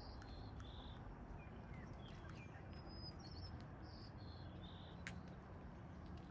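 Faint outdoor background: small birds chirping now and then with short high notes over a steady low hum, and one faint click about five seconds in.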